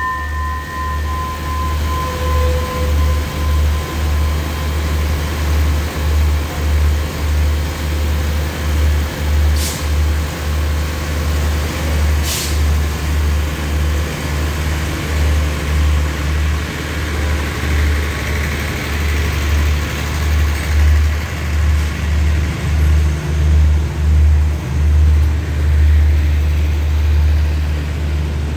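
Passenger express train pulling out of the platform, its coaches rolling slowly past with a low, rhythmic rumble that grows louder near the end.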